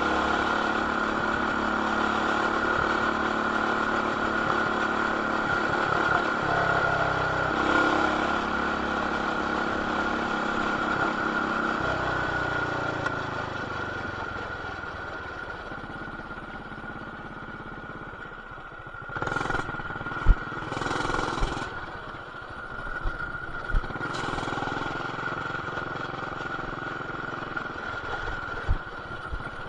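Baja BT200X mini bike's single-cylinder four-stroke engine with an aftermarket header and RLV exhaust, running steadily under throttle, then easing off and fading lower from about halfway through. A few short louder rushes and several sharp knocks come in the second half. The sound is muffled by the camera's plastic case.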